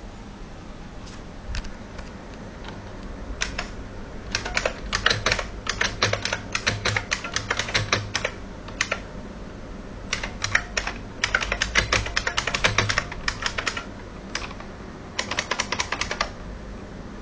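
IBM Model M keyboard's buckling-spring keys clicking under typing. A few single key presses come first, then three bursts of rapid keystrokes with short pauses between them.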